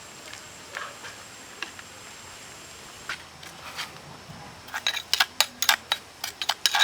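Scattered faint ticks, then a quick run of sharp clinks and knocks from about two-thirds of the way in, loudest near the end.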